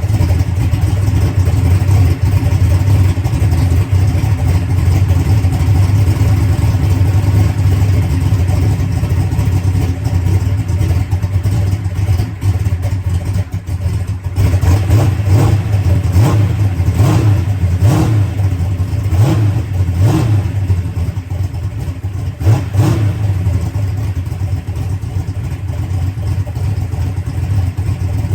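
Drag race car engine idling, running on a newly fitted Enderle fuel pump, with a handful of brief throttle blips in the middle.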